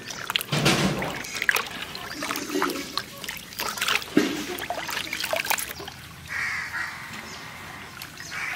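Water splashing and trickling as cut pieces of forest potato (wild yam) are washed by hand in a vessel, with many short splashes and knocks.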